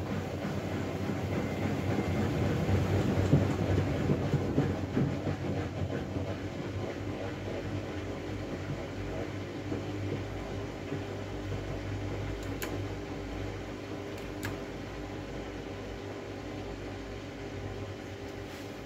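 Miele W433S front-loading washing machine running with a load of stuffed toys and pillows: a steady motor hum with rumbling from the drum. It is loudest a few seconds in and slowly gets quieter, with two faint clicks in the second half.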